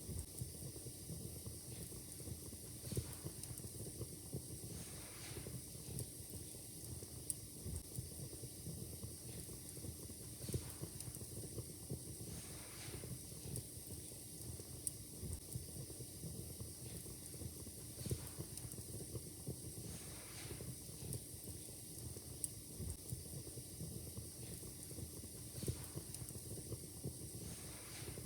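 Wood fire in a fireplace crackling, with a steady faint hiss and irregular sharp pops and snaps scattered throughout.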